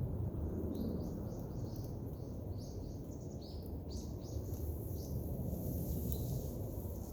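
A small bird calling a quick run of short, high chirps, each dropping a little in pitch, about two or three a second, stopping about five seconds in, over a steady low outdoor rumble.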